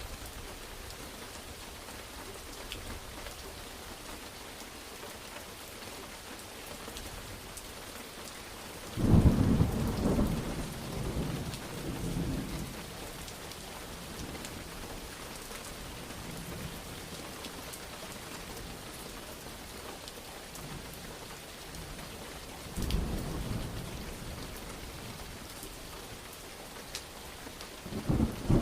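Steady heavy rain with thunder: a sudden loud thunderclap about nine seconds in rumbles away over several seconds, a weaker roll follows later, and another peal begins near the end.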